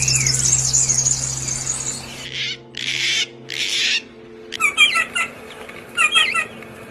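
Small birds calling: a high, thin warble, then a few harsh, hissing calls, then quick runs of repeated chirps about five and six seconds in.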